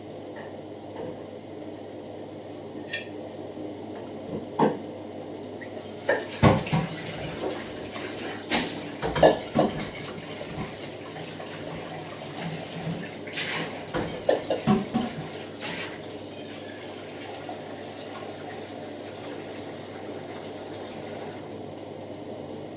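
Dishes, pots and cutlery clattering and clinking in a kitchen, a run of scattered knocks through the middle over a steady low background.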